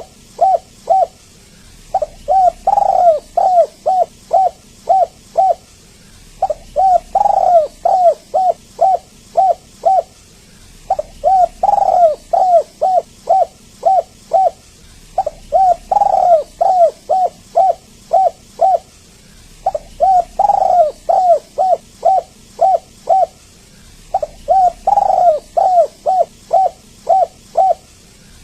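Spotted dove (tekukur) cooing in repeated phrases. Each phrase is a louder, longer first coo followed by about six short quick coos, and the phrases come roughly every four and a half seconds. It is a lure call for drawing out a dove that will not sing.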